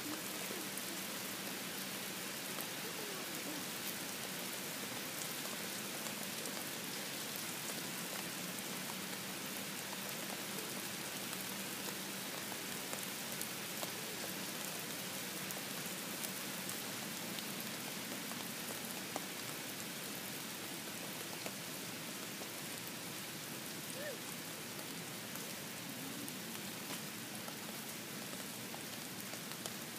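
Steady rain falling, an even hiss with a few louder drips here and there.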